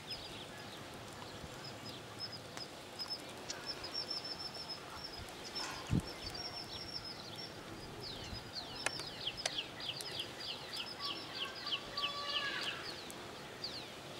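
Small birds chirping: short, high chirps that slide downward, scattered at first, then in a quick run through the second half. A single thump about six seconds in.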